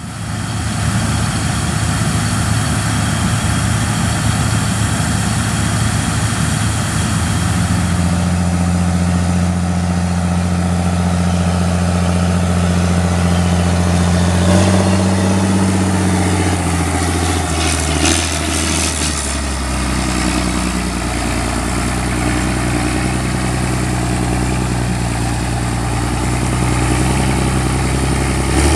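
Heavy diesel engine of harvest machinery running steadily, its engine note shifting several times as the revs change. About two-thirds of the way through there is a short hiss.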